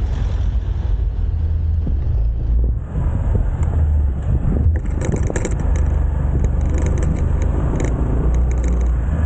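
A motorcycle on the move, heard from a mic on the bike or rider: the engine runs under a heavy, steady wind rumble. In the second half there is a run of crackling and scraping noises.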